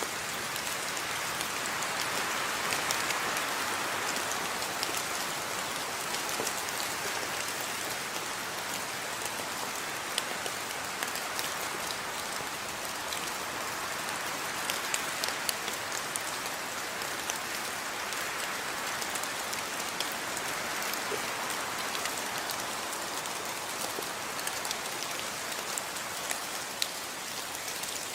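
Steady rain falling, with many separate drops ticking sharply on a surface over a continuous hiss.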